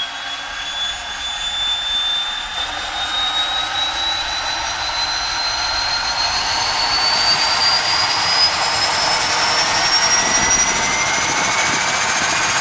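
Cessna Grand Caravan C208B's Pratt & Whitney PT6A turboprop running, its turbine whine rising slowly and steadily in pitch as the engine grows louder, a sign of power being increased.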